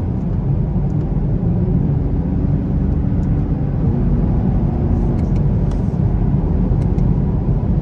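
Cabin sound of a 2021 Camaro SS's 6.2-litre V8 and road noise at highway speed. The engine revs climb as the 10-speed automatic is paddle-downshifted from ninth to sixth and then up to seventh. A few light clicks of the plastic paddle shifters come about five to seven seconds in.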